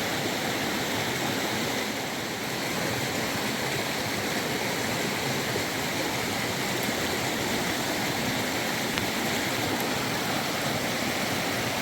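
Fast-flowing river water rushing with a steady, even sound.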